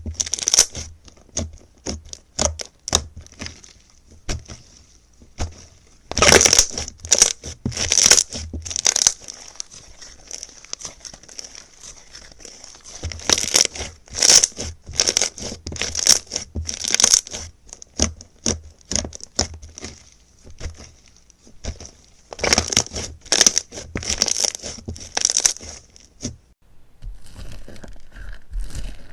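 Slime being squeezed and worked by hand, giving dense crackling and popping in three loud bouts a few seconds apart. Near the end it gives way to a quieter, steadier sound.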